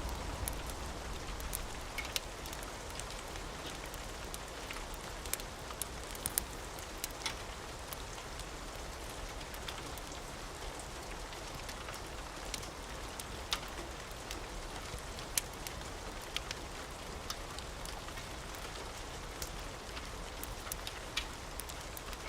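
Steady rain falling, an even hiss with scattered sharp clicks of drops. A low rumble of thunder dies away in the first two seconds.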